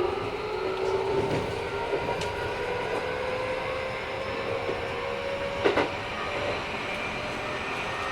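Keikyu 1000-series train heard from inside the car: the Mitsubishi IGBT inverter and traction motor whine rises steadily in pitch as the train picks up speed, over the rumble of the wheels, with a few sharp clacks from the rail joints. This set runs somewhat noisier than others of its class.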